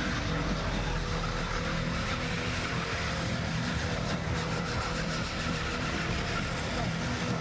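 Car engines running as cars drive slowly around a car park, under a steady hiss and low hum.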